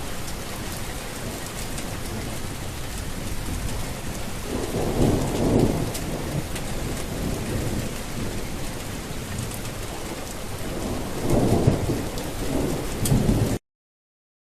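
Steady heavy rain with thunder rumbling twice, about five seconds in and again near the end. The sound cuts off abruptly shortly before the end.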